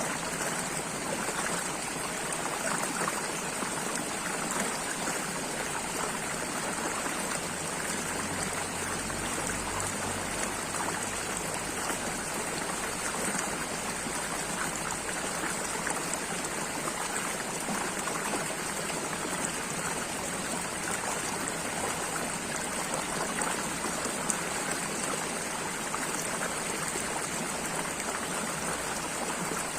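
Flowing water, a steady unbroken rush.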